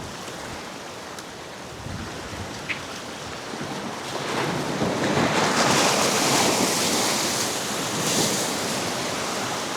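Sea surf washing against a rock jetty, with wind buffeting the microphone; the wash swells about halfway through, then eases off.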